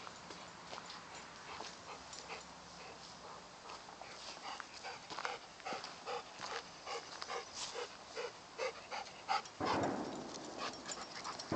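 Golden retriever panting in a quick, even rhythm that grows louder, with a louder rustling burst near the end.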